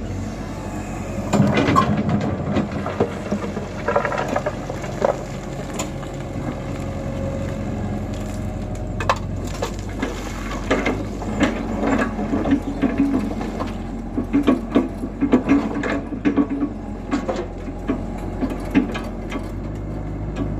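Tata Hitachi EX120 tracked excavator's diesel engine running steadily under load, with repeated crunches, knocks and clatter as its bucket works material into a truck.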